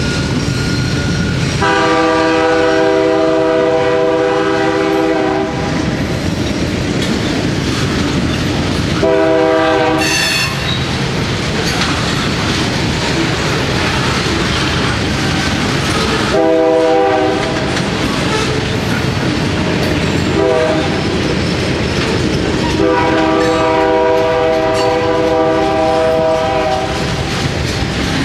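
Freight cars rolling past with steady wheel noise and clickety-clack over the rail joints. A locomotive horn from the head end of the train sounds four times: three long blasts and one short one.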